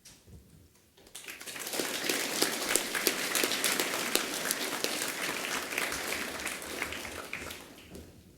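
Assembly audience applauding: clapping swells up about a second in, holds, and dies away near the end.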